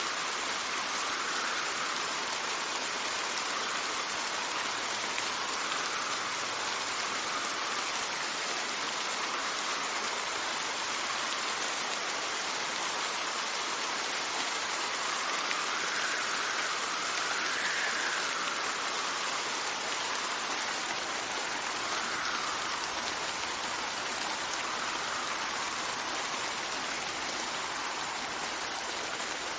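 Steady rain hissing, with wind swelling and easing in soft gusts every few seconds.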